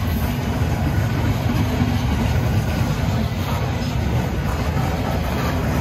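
Freight train of covered hopper cars rolling past: a steady low rumble of steel wheels on the rails.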